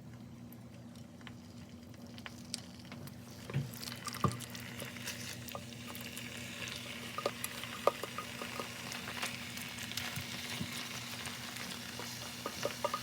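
Okonomiyaki sizzling in a hot frying pan. The hiss builds from about four seconds in, with light clicks and knocks of a utensil.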